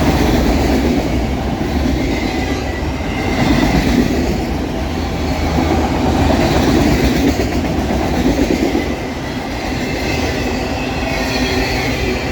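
Empty autorack freight cars rolling past, their steel wheels running steadily on the rails, with a faint high wheel squeal near the end.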